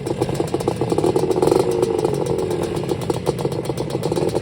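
Classic Bultaco two-stroke motorcycle engine running with a fast, rapid pulse, revving up to its loudest about a second and a half in, then easing back slightly.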